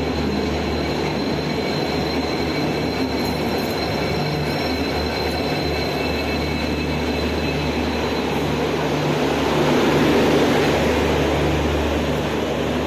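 Train running at a station platform: a steady rumble with a thin high whine, growing louder about three quarters of the way through.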